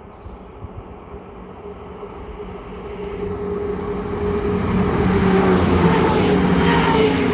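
Diesel train approaching and passing, its engine tones growing louder over the last few seconds and dropping a little in pitch near the end as it goes by.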